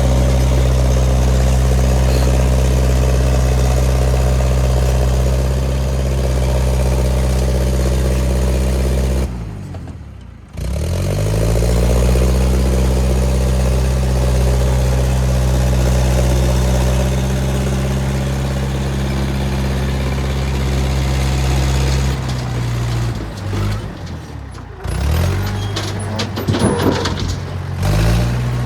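International 125 crawler loader's engine running steadily while it works. About nine seconds in its speed and level drop sharply, then climb back up a second and a half later; near the end it comes and goes, with clanking and rattling.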